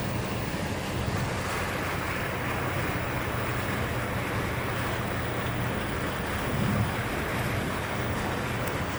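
Steady rush of wind and sea heard from a cruise ship's balcony, with wind buffeting the microphone and a low steady hum underneath; it swells briefly about seven seconds in.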